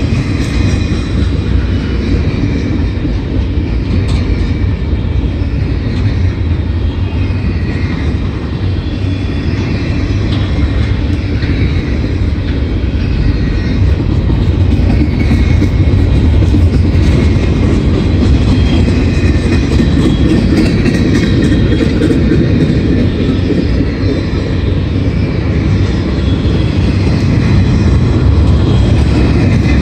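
CSX intermodal freight train's double-stack container cars rolling past: a steady rumble of steel wheels on rail, getting a little louder about halfway through.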